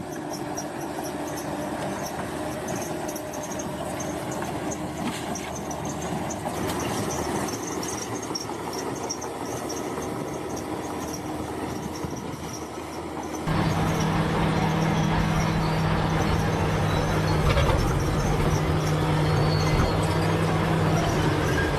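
Bulldozer diesel engine running under steady load, with squealing and clanking from its steel crawler tracks. About 13 seconds in, the sound jumps suddenly to a louder, deeper engine note.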